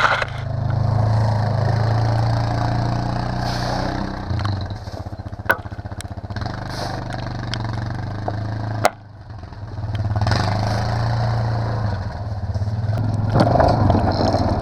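Yamaha Grizzly 660 ATV's single-cylinder engine running steadily under load while plowing snow. A sharp knock comes about nine seconds in, the sound dips briefly, then the engine picks up again.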